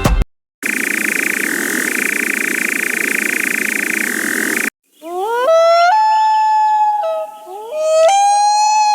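Two recorded bird calls. The first is a steady hissing screech lasting about four seconds. After a short gap comes a series of wailing calls, each gliding up and then holding a note.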